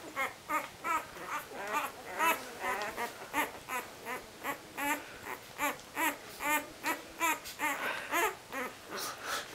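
One-week-old Labrador retriever puppies whining and squeaking in short, high cries that rise and fall, about two or three a second.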